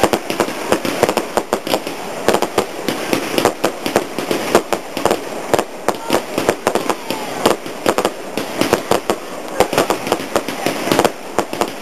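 Fireworks going off in a dense, continuous run of rapid bangs and crackles, many per second and overlapping.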